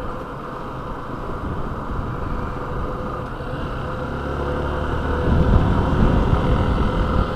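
Yamaha motorcycle running on the move, engine and road noise mixed, growing louder about four to five seconds in.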